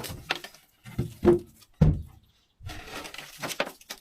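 Handling noise: several sharp knocks and clunks, the loudest about a second and a half in, then a rustling scrape through the second half.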